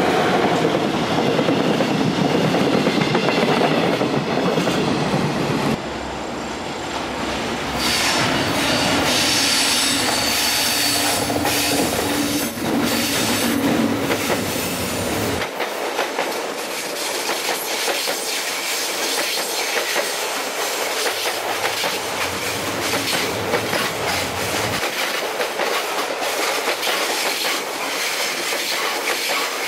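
Railway wagons and a train rolling past at close range: the empty container flat wagons of a freight train, then a stainless electric multiple-unit train, its wheels clicking over the rail joints in a fast stream of clicks. The sound changes abruptly about 6 and 15 seconds in, where one shot cuts to the next.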